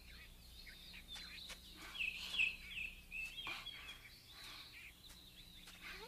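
Birds chirping: a steady run of short, quick chirps and twitters, with a faint low hum beneath them.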